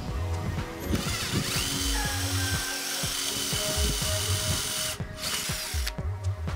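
Mitsushi XH-1006 18.8V cordless drill's motor starting about a second in, rising in pitch and then running steadily, stopping about five seconds in, over background music with a steady beat.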